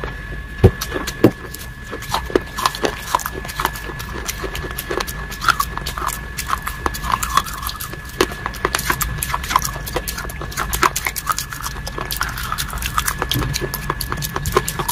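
Close-miked chewing and mouth sounds: a dense, irregular run of wet clicks and crackles.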